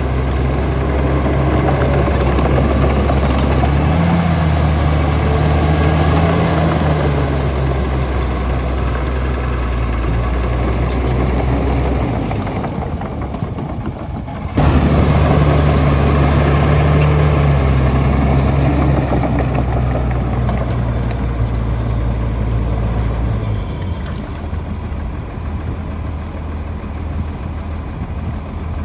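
Heavy diesel engine of earthmoving machinery running steadily under load. Its pitch lifts a little about four seconds in. The engine sound thins out for a couple of seconds near the middle, comes back suddenly and louder, and settles lower and quieter near the end.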